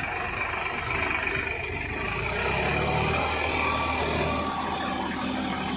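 John Deere 5050D tractor's diesel engine running steadily, its low hum growing stronger about two seconds in.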